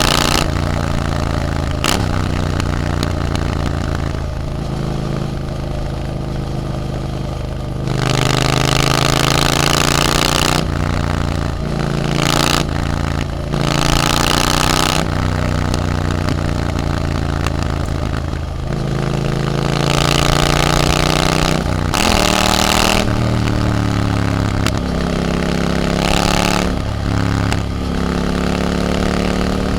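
Triumph Scrambler 900's parallel-twin engine through an Arrow exhaust while riding. The revs climb and fall again and again, with sudden pitch drops at the gear changes and throttle lifts.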